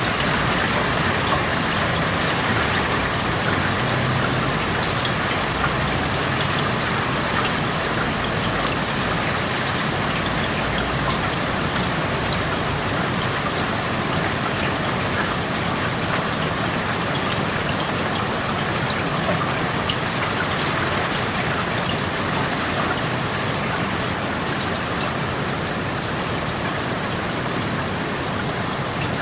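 Steady rain falling through an open window, a dense even patter with individual drops ticking on surfaces close by.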